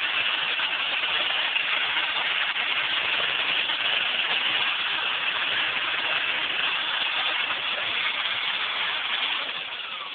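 Cordless drill spinning a wire brush, scrubbing carbon deposits off a cylinder-head valve with a steady grinding whir. It eases off near the end and stops abruptly.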